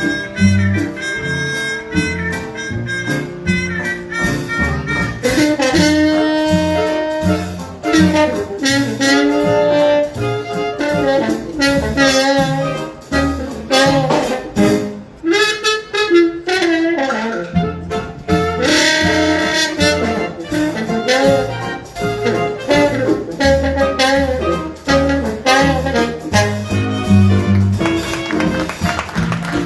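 High school jazz ensemble playing a tune live, with wind instruments carrying the melody over a steady bass line.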